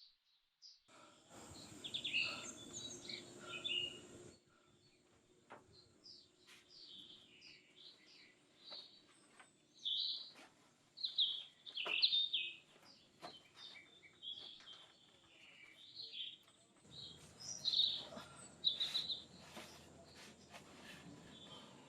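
Forest birds chirping and calling over and over, with a faint steady high whine underneath. A broad hiss swells in about a second in, stops around four seconds, and returns near the end.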